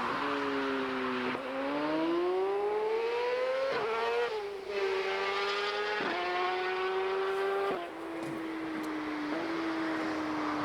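A high-performance car engine accelerating hard. Its note climbs steeply for a couple of seconds, with a quick gear change about four seconds in, then settles into a steady, slightly falling note with small steps as the car goes by.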